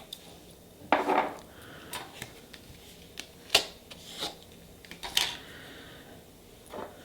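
Nail stamping tools and a polish bottle being handled on a tabletop: a scattering of small clicks and taps with a few short scrapes. The loudest, a scrape, comes about a second in.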